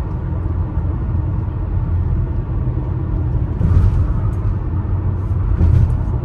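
Road noise inside a moving car: a steady low rumble of engine and tyres, with two brief louder swells, one around three and a half seconds in and one near the end.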